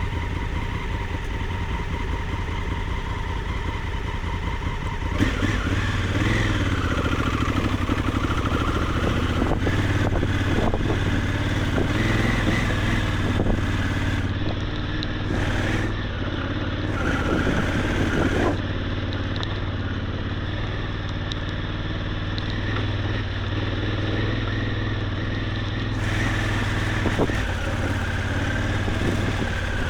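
Maxi-enduro motorcycle engine running as it climbs an off-road track, its pitch rising and falling several times with the throttle.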